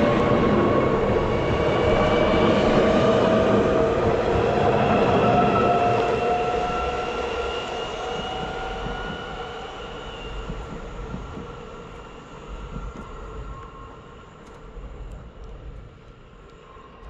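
SJ electric passenger train leaving the station, running past and away. Its motors whine on several pitches that slowly rise, over steady wheel-on-rail noise, and the whole sound fades as the train draws off into the distance.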